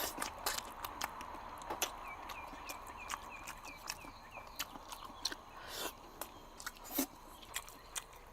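Close-up chewing and lip-smacking on gelatinous braised pork trotters, a string of short wet clicks throughout. A faint run of rapid high chirps sounds in the background about two seconds in.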